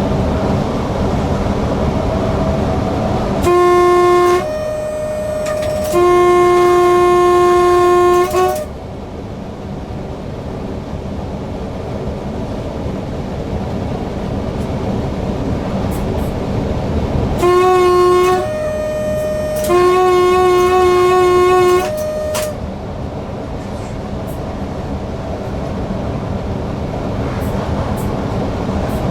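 Horn of a Newag Impuls EN63 electric multiple unit heard from inside its cab, sounding two sequences of warning signals about fourteen seconds apart, each a short blast, a lower note, then a longer blast, as the train nears a level crossing. Steady rail running noise of the train underneath.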